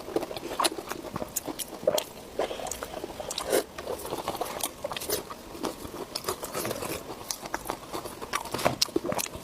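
Close-miked mouth sounds of eating: biting and chewing food with many irregular wet clicks and smacks.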